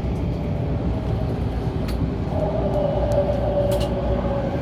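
Inside a moving MTR A-train: the steady rumble of wheels running on the rails, with a steady whine joining a little over halfway through as a second train runs alongside.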